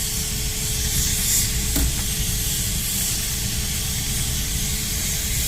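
1902 Case 20 hp steam traction engine hissing steam steadily over a low rumble.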